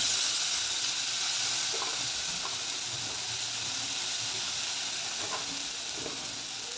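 Spice paste frying in hot mustard oil in a pan, a steady sizzling hiss that slowly fades, with soft scrapes of a silicone spatula stirring it.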